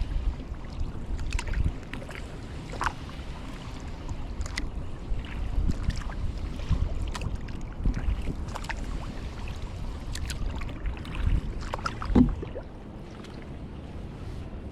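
Kayak paddling: irregular splashes and drips of water from the paddle blades over a steady low rumble, with a louder thump about twelve seconds in.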